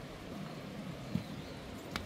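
Footsteps walking on a trail over a steady background hiss, with one firmer step about a second in and a small click near the end.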